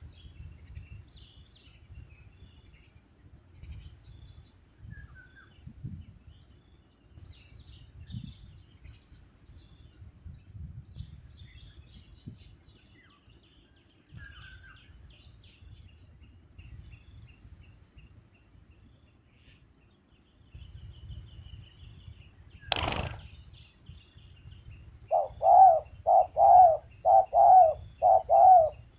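Spotted dove cooing loudly in a quick run of about eight notes near the end, after a long stretch of faint small-bird chirps over a low rumble. One sharp knock comes shortly before the cooing.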